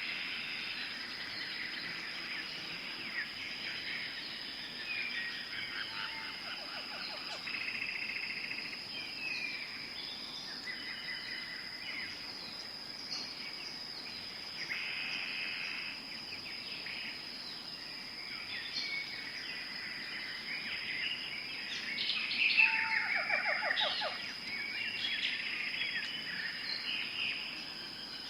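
Tropical forest ambience: many birds chirping and trilling over a steady, high-pitched insect drone, with a louder burst of calls about three-quarters of the way through.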